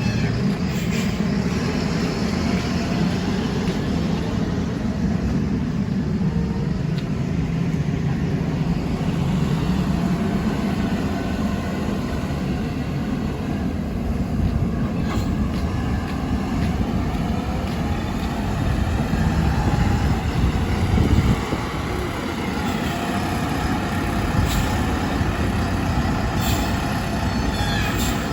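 Wheel loader's diesel engine running steadily under work, a little louder about two-thirds of the way through, with a higher whine that rises and bends near the end.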